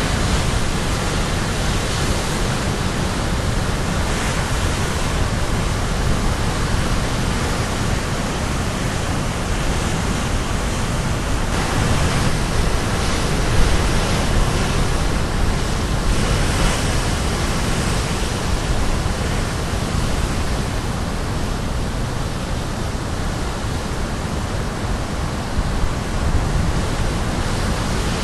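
Caribbean Sea waves breaking on the shore: a steady wash of surf noise that swells in a few stronger surges a little past the middle.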